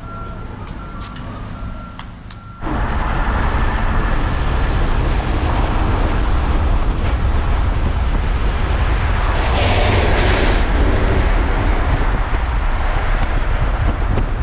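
A vehicle's warning chime beeping steadily at one pitch over low road rumble. About two and a half seconds in, this gives way to loud wind and road noise from a moving vehicle, with a brief hiss partway through.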